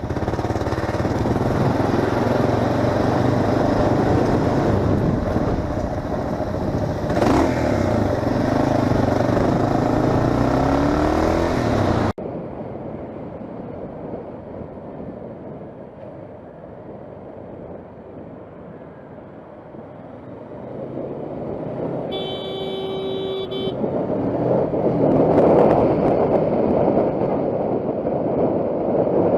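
A motorcycle is ridden at speed, with its engine and rushing wind loud and the engine note rising as it revs about 8 to 11 seconds in. It cuts off abruptly to quieter riding. A horn honks for about a second and a half, then the engine and wind noise build again.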